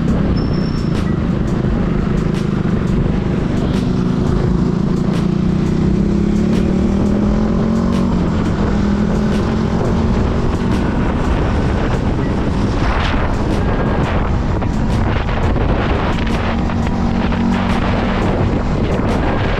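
Motorcycle engine running steadily while riding, its pitch rising gently a few seconds in, with wind rushing over the microphone.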